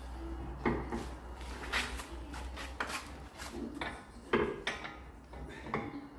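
Irregular knocks, clanks and rubbing of hard objects being handled, about eight sharp strikes with the loudest a little past four seconds in, typical of tools and car parts being moved during workshop repair work. A low hum runs under the first two seconds.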